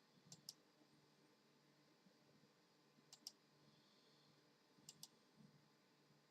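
Three faint double clicks, each pair a quick click-click, spaced about two seconds apart over a quiet low hum.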